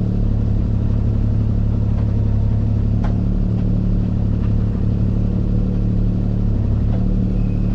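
Diesel engine of heavy earth-moving equipment running at a steady speed: a constant low drone, with a faint knock about three seconds in.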